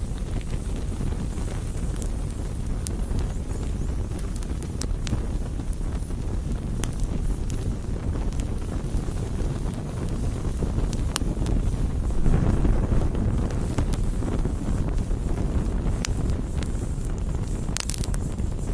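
Campfire burning: a steady low rumble of flames with scattered sharp crackles and pops from the burning wood. The rumble swells louder about twelve seconds in, then settles.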